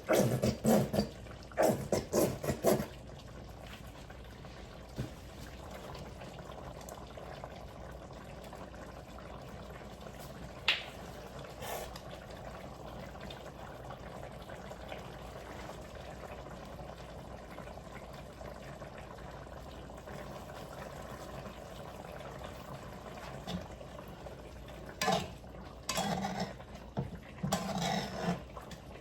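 A pot of sauced food simmering on the stove, a steady bubbling hiss. A few louder, short sounds break in during the first few seconds and again near the end.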